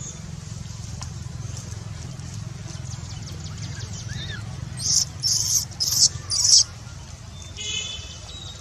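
Four short, high-pitched animal squeaks in quick succession about five to six and a half seconds in, over a steady low hum, with one shorter high call near the end.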